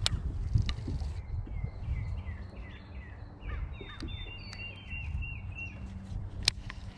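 A songbird calls a run of about ten short, falling notes, roughly two a second, over a low outdoor rumble. A single sharp click comes near the end.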